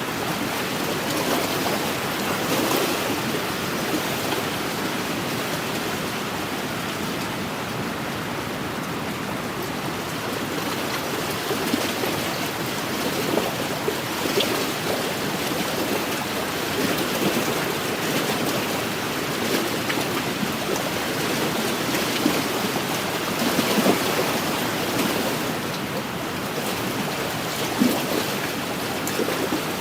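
Small wind-driven waves lapping and splashing along a lakeshore: a continuous wash of water with irregular louder splashes.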